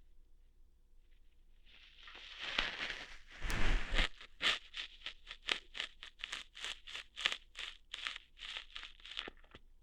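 ASMR ear-hair-plucking sounds made close to the microphone: a scratchy rubbing rustle that swells with a dull bump about four seconds in, then a run of quick scratchy plucking strokes, about three or four a second.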